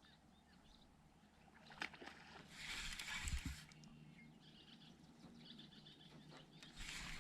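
Quiet riverside ambience with faint bird chirps. A sharp click comes about two seconds in, and a brief rush of noise with a low thump follows about a second later.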